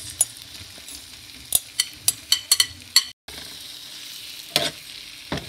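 Vegetables and cubed avocado sizzling on a hot ridged grill pan, with a spatula scraping and knocking against the pan as they are stirred together. The sound drops out for an instant a little past halfway.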